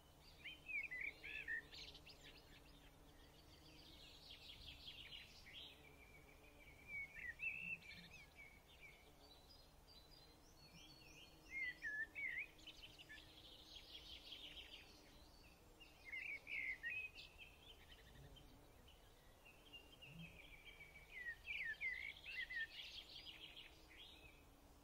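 Faint birdsong: bursts of quick chirps and twittering trills, recurring every few seconds.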